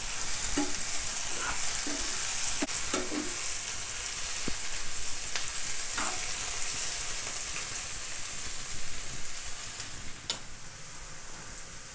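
Button mushrooms sizzling in hot oil in a pan, a steady hiss with scattered clinks and scrapes of the spoon as they are stirred. This is the stage where they fry down after about ten minutes on the heat. The sizzle eases off somewhat near the end.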